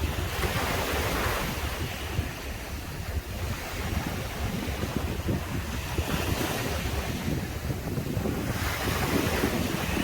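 Ocean surf breaking and washing up the beach, swelling about a second in and again near the end, with wind buffeting the microphone.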